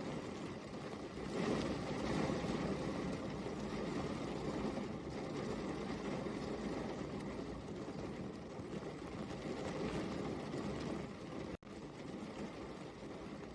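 Steady rain falling, an even continuous hiss that swells slightly about a second and a half in, broken by a split-second dropout near the end.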